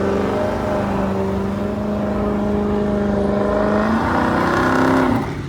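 Car engine running at steady high revs, its drone creeping up in pitch, then changing about four seconds in and easing off near the end.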